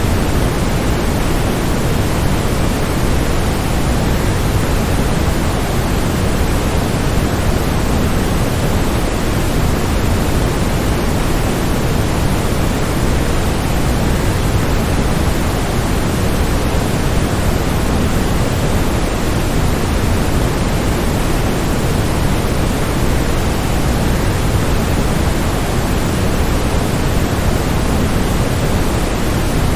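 Waterfall, a steady, unbroken rush of falling water, deep and full, with no other sounds.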